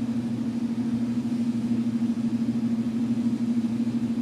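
Steady low hum holding one tone, with a faint background hiss.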